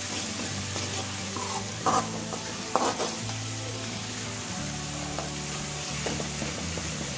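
Minced garlic sizzling in hot oil in a steel pan as a steel spoon stirs it, with a few sharp knocks of the spoon against the pan about two to three seconds in. Background music plays along.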